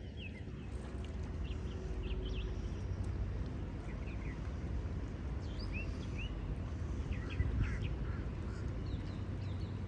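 Birds chirping, with short high calls scattered throughout, over a steady low rumble of wind on the microphone.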